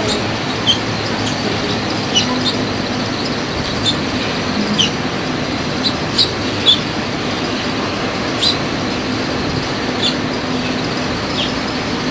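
Small birds giving short, high chirps, often sliding downward, about a dozen scattered irregularly, over a steady background hum that resembles distant traffic.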